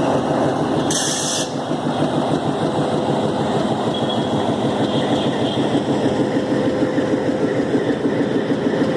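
Nilgiri Mountain Railway train running, a steady mechanical engine hum with a constant tone, and a short hiss about a second in.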